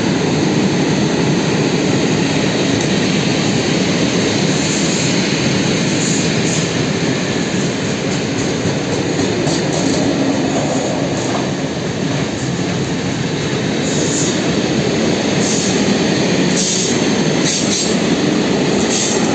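Loaded freight train of coal gondola wagons rolling past, a steady loud rumble of wheels on rail. High-pitched wheel squeal breaks in briefly about four seconds in and several more times in the last third.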